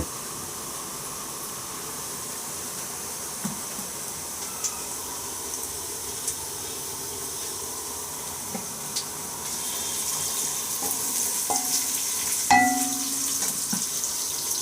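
Food frying in a pan, sizzling steadily, with a few light clinks of a utensil against the pan. The sizzle grows louder about two-thirds of the way through.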